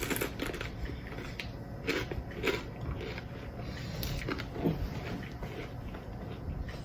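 A person chewing a mouthful of crunchy Takis rolled tortilla chips with jalapeño and cream cheese, with irregular crisp crunches.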